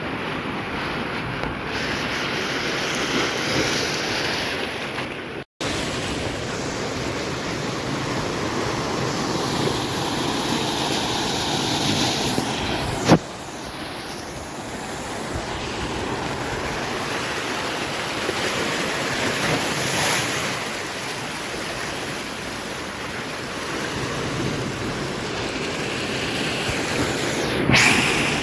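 Heavy swell waves surging and breaking on the shore, swelling and easing every several seconds, with wind buffeting the microphone. A single sharp click about halfway through.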